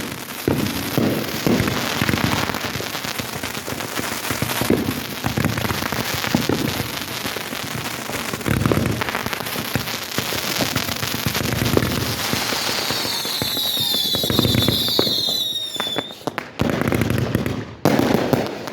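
Fireworks going off in a dense barrage of booms and crackling. About two-thirds of the way in, a cluster of shrill whistles falls in pitch together, then the barrage breaks up into a few separate bangs near the end.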